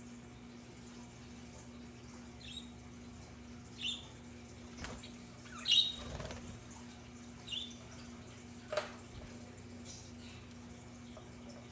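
Budgerigars giving a handful of short, scattered chirps, with a couple of sharp clicks, over a steady low hum.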